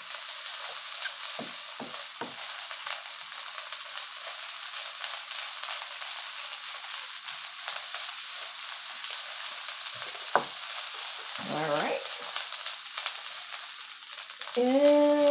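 Egg fried rice sizzling in a nonstick wok while it is stirred and tossed with a wooden spatula: a steady frying hiss with light scrapes of the spatula, and one sharp tap about ten seconds in.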